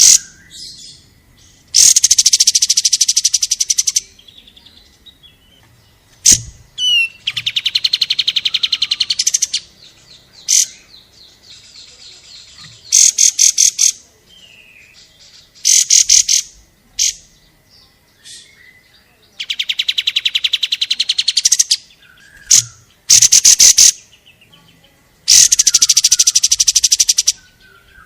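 Recorded song of a kapas tembak bird, played as training song: loud bursts of rapid, densely repeated trilling notes, each lasting one to two seconds, with short single chirps in the gaps between them.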